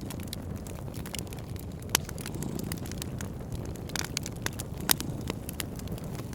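Wood fire crackling in a fireplace: a steady low rush of flames with frequent sharp pops and snaps, two louder pops about two seconds in and near five seconds.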